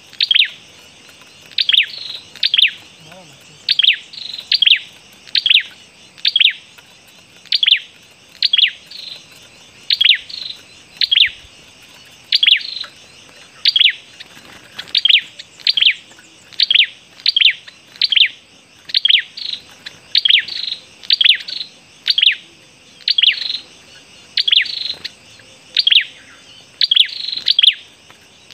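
A small bird calling over and over with short, sharp, high chip notes, roughly one a second, sometimes two in quick succession.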